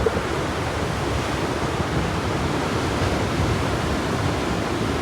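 Surf breaking in a steady, unbroken rush of noise, whipped up by a typhoon, with wind buffeting the microphone as a low, uneven rumble.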